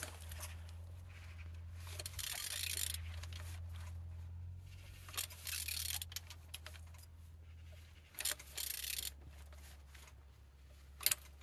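Renault K9K 1.5 dCi diesel engine, out of the car, being turned over by hand. Its rotation gives metallic clicks and about four scraping pushes, each about a second long, over a steady low hum. It turns freely, a sign the engine is not seized.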